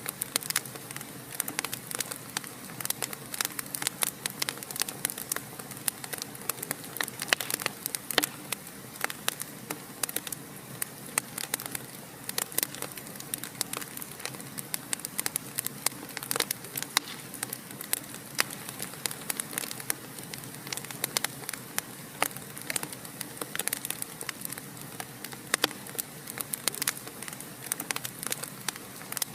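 Wood fire crackling in a fireplace: a steady hiss with dense, irregular sharp pops and snaps throughout.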